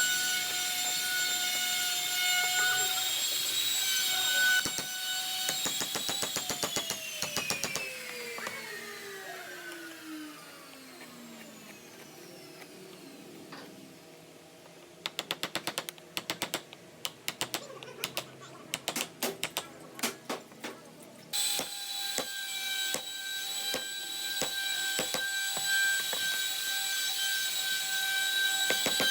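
Small electric power tool's motor whining steadily, then spinning down with a falling pitch after it is switched off. A run of sharp clicks follows, and the motor starts up again with the same steady whine about three quarters of the way in.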